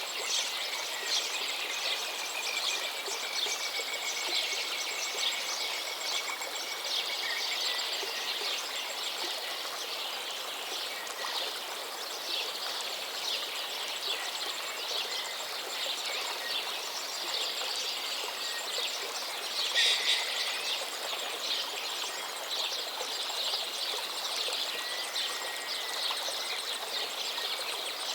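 Many birds chirping and calling over a steady rush of flowing river water. A long, slightly falling whistle runs for several seconds early in the stretch, and one louder call stands out about twenty seconds in.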